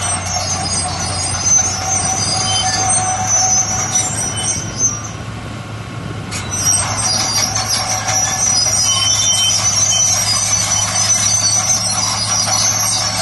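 Bulldozer at work: the diesel engine runs with a steady low drone while the crawler tracks squeal high over it, easing off briefly around the middle.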